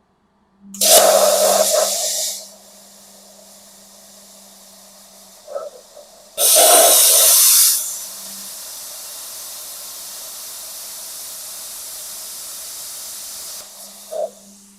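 Handheld plasma cutter set to 15 amps, fired twice: each time a loud hiss of arc and air for about a second and a half, then a quieter steady hiss of air flowing on. At this low current it is not cutting through the steel.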